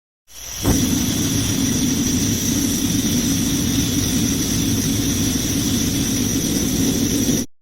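Vehicle engine sound effect: a steady running engine with a low rumble and a steady high whine, starting after a brief silence with a click and cutting off abruptly near the end.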